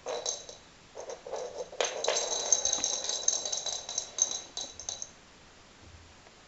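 A toy rattling and jingling in quick bursts with a high ringing note, as a kitten bats it about. It stops about five seconds in.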